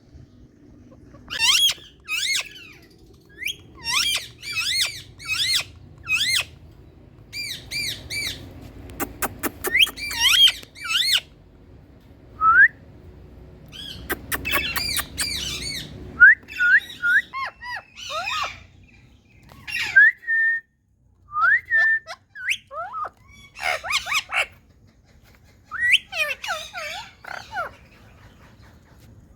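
Indian parrots giving short, shrill squawking calls in quick runs of several calls, with brief pauses between the runs.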